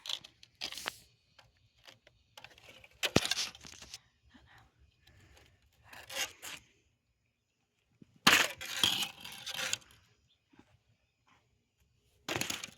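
Ceiling fan parts being scraped and forced apart in several separate bursts of scraping and cracking, with a sharp knock about three seconds in.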